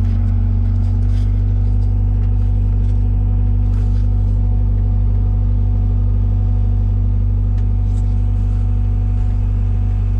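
Komatsu PC120-6 excavator's diesel engine running at a steady speed, a loud, even low drone.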